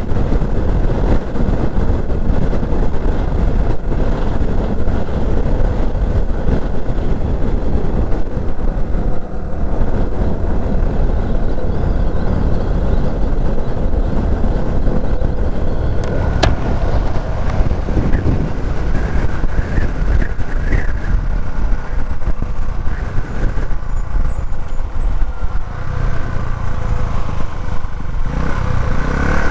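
Herald motorcycle riding on the road: steady wind noise over the microphone mixed with the engine running.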